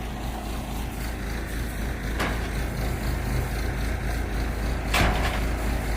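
Backhoe's diesel engine running steadily, with two faint knocks about two and five seconds in.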